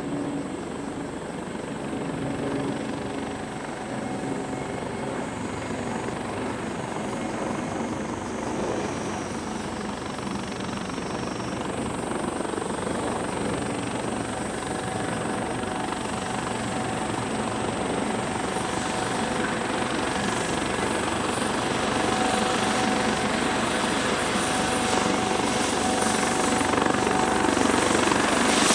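Airbus AS365N3 Dauphin helicopter with its two Turbomeca Arriel turboshaft engines running, growing steadily louder. A thin high whine joins about twelve seconds in.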